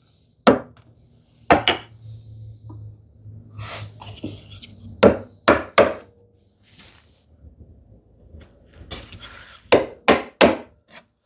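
Sharp knocks of a chisel being struck as it chops down a tenon shoulder along a knife line, coming in small groups: two, then two, then three close together near the end. Between the groups there are quieter scraping sounds of the chisel paring the wood.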